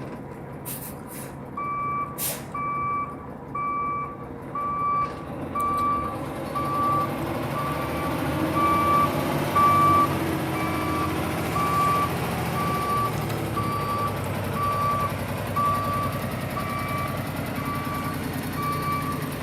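Backup alarm beeping about once a second, a single steady tone, over a 2018 Kenworth T680 semi tractor's diesel engine running, as the truck reverses. A few short sharp hissing noises come near the start.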